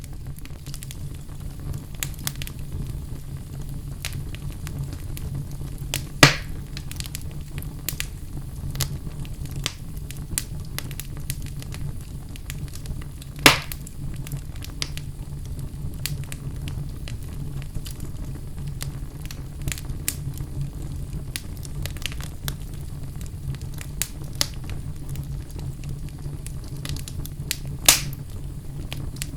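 Wood fire burning in a fireplace: a steady low rumble of flames under scattered sharp crackles, with a few louder pops.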